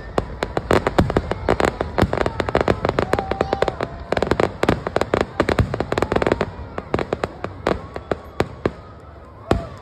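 Aerial fireworks bursting in a rapid, dense string of bangs. After about six and a half seconds they thin out to scattered pops, with one louder bang near the end.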